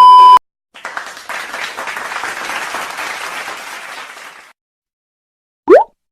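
Applause sound effect: a crowd clapping for about three and a half seconds, thinning out before it stops. Just before it, a loud steady beep cuts off; near the end, a short, loud rising tone sweeps quickly upward.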